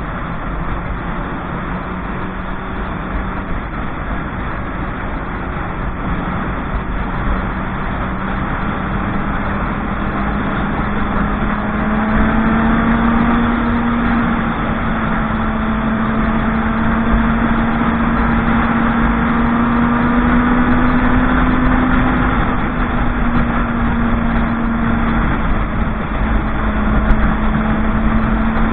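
Motorcycle engine running while riding at a fairly steady pace. Its pitch holds steady, then rises a little about halfway through and stays up as it gets louder, over a low rumble.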